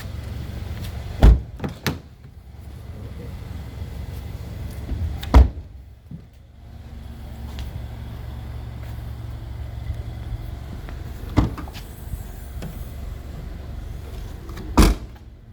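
A steady low hum with several sharp thuds or knocks over it. The loudest thuds come about a second in, about five seconds in, and near the end.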